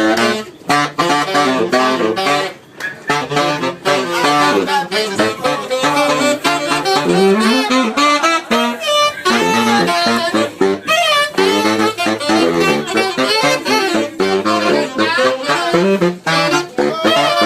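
Saxophone playing fast runs of notes, with a few bent and sliding notes.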